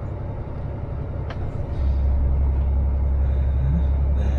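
Scania S500 lorry's diesel engine heard from inside the cab: a low rumble that steps up louder about two seconds in as the truck pulls away, with a short click just before.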